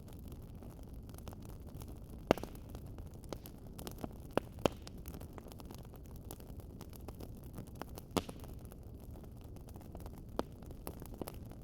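Wood fire crackling: a steady low rumble of the burning fire with sharp, irregular pops and snaps of the wood, the loudest about two seconds in, a quick cluster around four to five seconds in, and another about eight seconds in.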